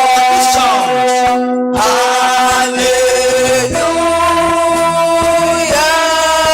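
Church worship singing with instrumental accompaniment: slow, long-held notes that change every second or two.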